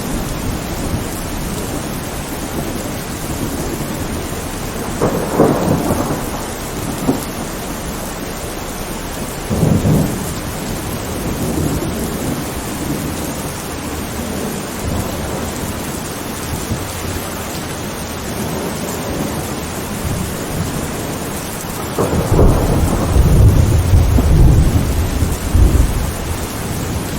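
Steady rain with rolling thunder: a couple of rumbles in the first half, then a longer, louder thunder rumble starting about two-thirds of the way through.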